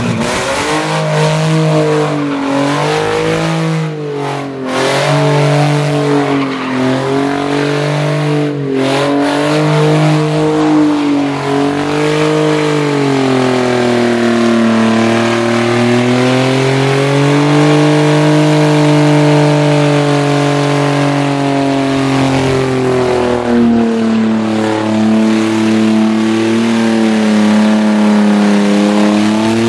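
Nissan 350Z's VQ35DE V6, running with no exhaust, held at high revs during donuts. Its note wavers up and down as the throttle is worked, with the rear tyres squealing throughout.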